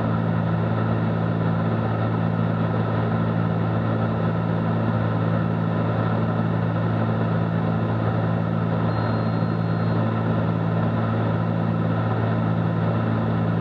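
Steady drone of a Cessna 310Q's twin piston engines and propellers in flight, heard from inside the cabin as an even low hum with hiss above it. A faint thin high tone sounds briefly about halfway through.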